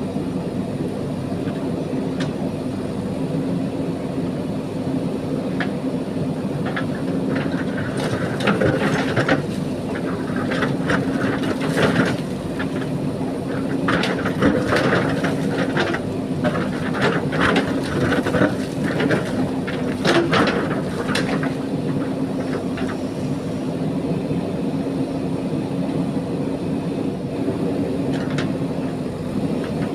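JCB backhoe loader's diesel engine running steadily, with a busy stretch of clanking and scraping through the middle as the bucket cuts and moves gravel.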